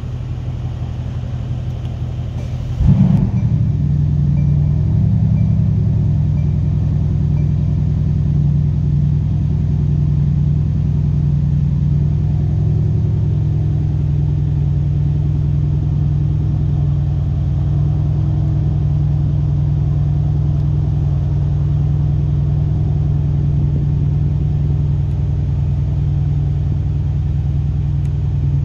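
Mercedes-AMG C63's twin-turbo 4.0-litre V8 idling steadily, a low even hum. A thump about three seconds in, after which the idle sounds a little louder.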